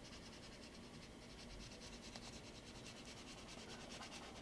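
Faint, quick strokes of a Crayola felt-tip marker scratching back and forth on paper as a shape is coloured in.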